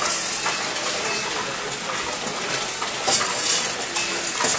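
Claw crane machine running amid busy arcade clatter: a steady din of clinks and rattles, with a sharp click about three seconds in and another near the end.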